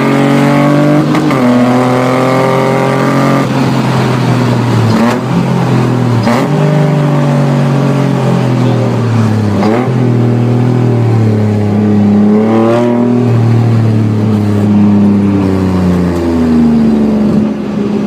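Jaguar 3.0 V6 engine of an MGB GT track car running hard. Its pitch dips and climbs again several times, with a short sharp crack at most of the dips. Near the end the note settles lower.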